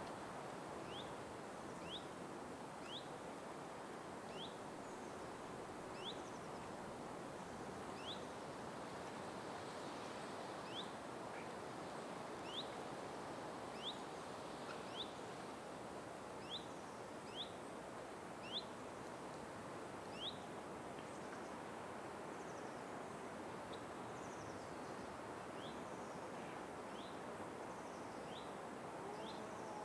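A bird repeating a short, high whistled note about once a second over a steady hiss of outdoor ambience; the calls grow fainter in the last third.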